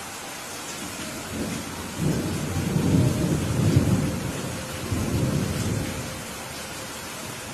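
Steady heavy rain with a roll of thunder that swells about a second and a half in, peaks around the middle, and dies away near the end.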